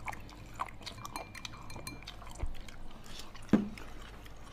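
Mouth chewing crisp raw sashimi, with small wet clicks and crunches, and one sharper, louder click about three and a half seconds in.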